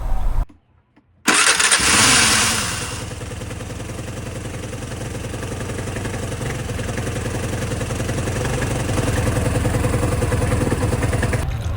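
Vespa GT200's single-cylinder four-stroke engine starting just over a second in, with a short burst of noise as it catches, then settling into a steady idle that slowly grows a little louder. It is run after a new thermostat and cooling hoses have been fitted.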